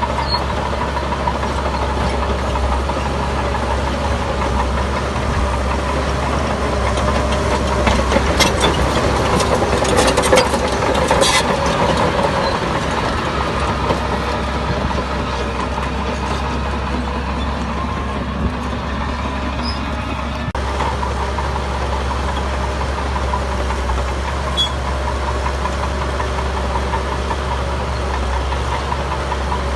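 Diesel engine of heavy earthmoving machinery running steadily, with a burst of clattering knocks about eight to twelve seconds in.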